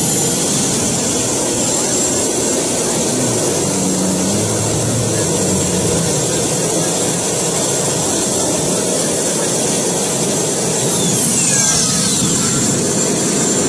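Jet turbine engine running loudly with a steady high-pitched whine, which drops steeply in pitch about eleven seconds in.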